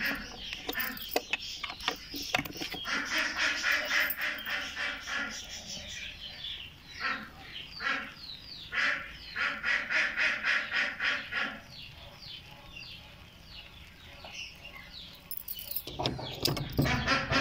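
Pet birds calling in a noisy, rapidly repeated chorus that dies down for a few seconds in the second half and picks up again near the end. A key works in a metal padlock near the end.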